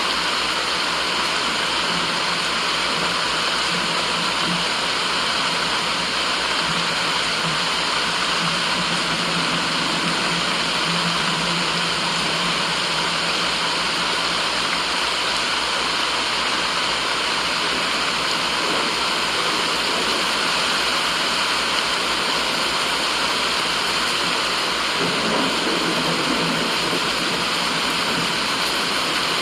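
Steady white noise with a rushing, water-like sound, even in level, like a waterfall.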